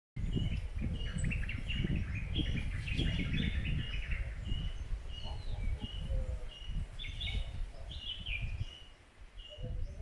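Garden birds calling: a short high note repeated about twice a second, mixed with quicker chattering phrases. Underneath runs a low rumbling noise that fades after about eight seconds.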